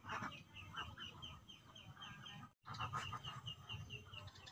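Bird calls: a steady series of short, high chirps at about four a second, with some lower calls beneath. The sound cuts out for a moment just past halfway.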